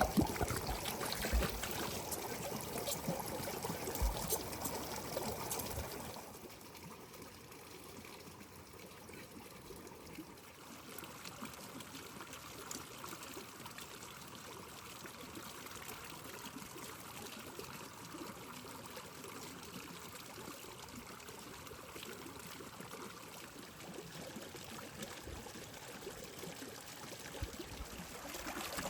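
Running water trickling steadily. In the first six seconds there are louder knocks and clicks over it.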